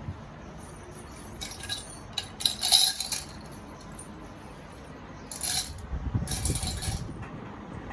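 Handling noise from unpacking: a few short bursts of clinking and rustling, with some low knocks near the end.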